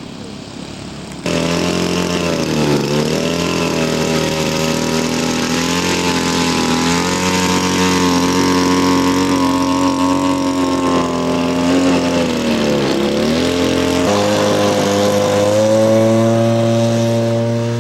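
Radio-controlled scale model aircraft engine running steadily at high power, its pitch dipping and recovering twice. The sound starts suddenly about a second in and changes abruptly near the end.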